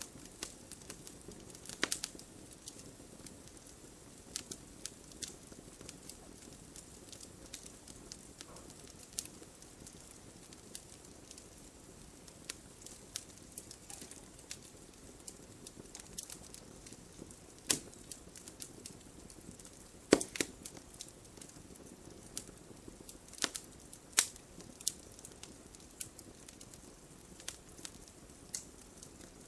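Wood campfire burning: a low, steady rush of flame with irregular sharp crackles and pops from the burning wood, a few of them louder snaps in the second half.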